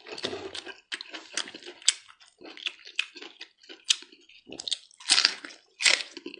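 Close-up wet chewing and lip-smacking of boiled mutton from a sheep's neck, many short irregular smacks. Near the end comes a crunchy bite into a whole raw red onion.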